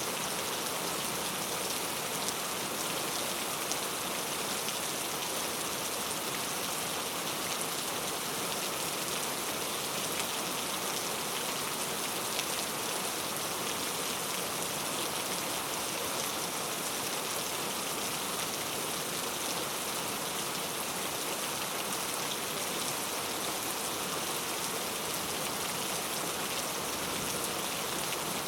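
Steady heavy rain falling and pattering on a surface, an even hiss with many small drop ticks.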